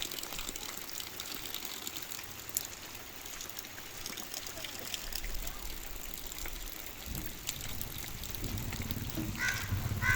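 Heavy rain falling, a steady wash of noise with scattered sharp drop ticks.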